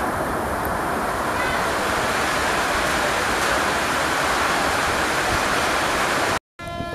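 Loud, steady rushing noise in the wake of a high-speed express train as its last coach speeds away past the platform. The noise cuts off suddenly near the end.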